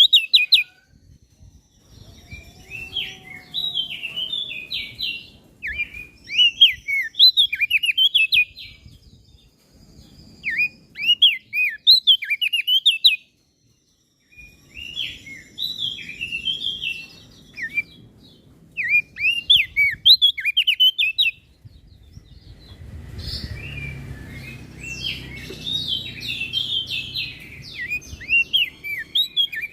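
Crested white-eye (opior jambul) singing in repeated bursts of quick, high chirping notes. Each phrase lasts a second or two, with short pauses between. A low rumbling noise sits underneath, heavier in the last third.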